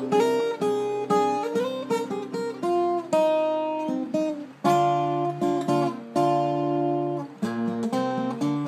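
Yamaha L12-5 acoustic guitar being played: strummed chords and picked notes, each left to ring between strokes, with a few pauses in the playing.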